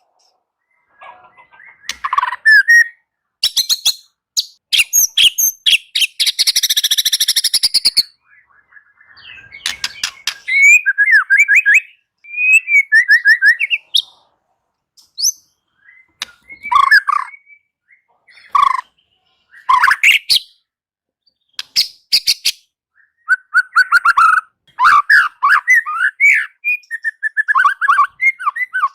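White-rumped shama singing: a varied run of sharp clicks, a rapid buzzy trill and fluting whistled phrases, broken by short pauses.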